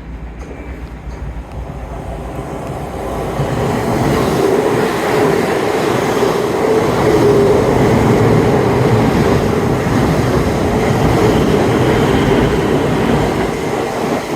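Electric passenger train passing through the platform without stopping: the rush of the train builds over the first few seconds and then holds loud and steady as the carriages go by, with a steady hum and wheels clattering on the rails.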